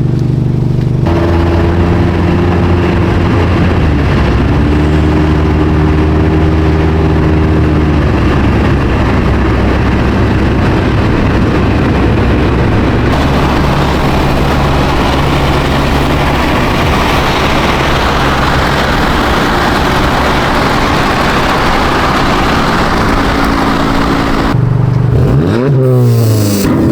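Car engine running, its pitch shifting in steps, then revving up and down in quick sweeps near the end.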